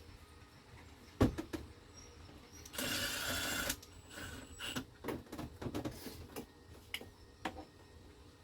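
Dash trim pieces being fitted back together: scattered clicks and knocks, with a sharp snap about a second in. Near the middle, a small power tool runs steadily for about a second.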